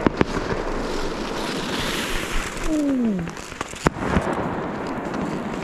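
Wind rushing over the microphone while skiing, with sharp knocks at the start and near the end and a short falling tone about three seconds in.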